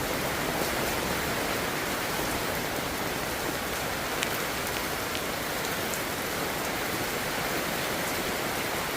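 Steady rain falling, an even hiss, with a few faint ticks of drops between about four and six seconds in.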